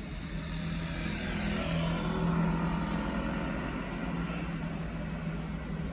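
Loaded truck's engine running with a steady low hum, growing louder to a peak about two seconds in and then easing off.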